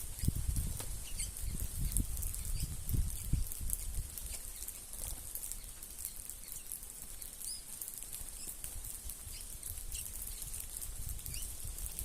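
A flock of wild birds at a feeding spot: scattered short chirps and calls throughout, with a low flutter-like rumble in the first few seconds, over a steady high hiss.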